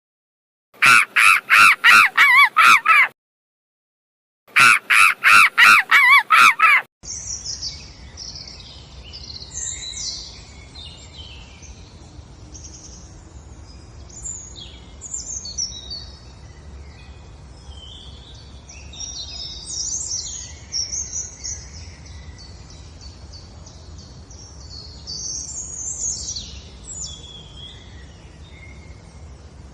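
Two bursts of loud, rapidly repeated harsh calls, about three a second, separated by a couple of seconds of silence. These are followed by a steady chorus of many small birds chirping and twittering.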